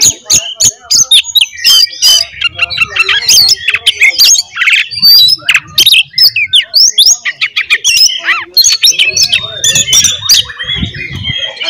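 Oriental magpie-robin (kacer) singing its loud, full-voiced fighting song: a fast, unbroken run of varied notes and sweeping whistles. This is the aggressive song used as a lure to provoke other magpie-robins.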